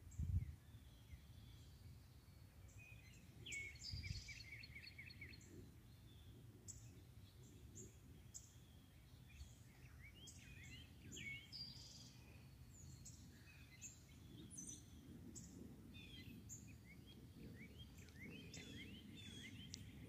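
Faint songbirds chirping and calling, with a quick run of repeated chirps about four seconds in and more scattered calls later. A couple of low thumps, near the start and about four seconds in.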